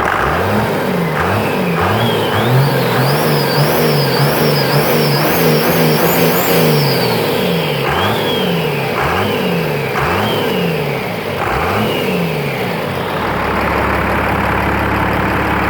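Cold 1995 Dodge 12-valve Cummins diesel being revved over and over in quick blips, pitch climbing and falling, with a high whine rising and falling along with the revs. It drops back to a steady idle near the end.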